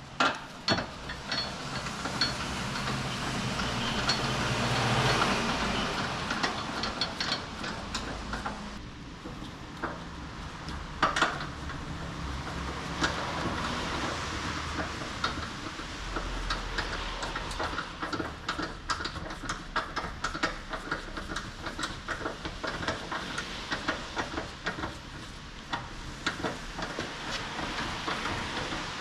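Car workshop sounds from work on a car's front suspension with hand tools: irregular metal clicks, taps and clanks over a steady background noise. A noisier stretch with a low hum swells and fades during the first six seconds.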